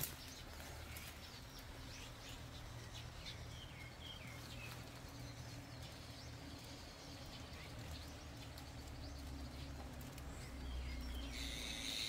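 Faint wild birdsong: many short chirps, busiest in the first half, over a steady low rumble. A brief hissing rustle comes about a second before the end.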